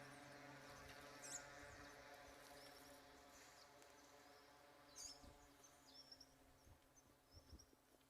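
Near silence: a faint hum that fades away over the first few seconds, with a few faint, high, short chirps scattered through.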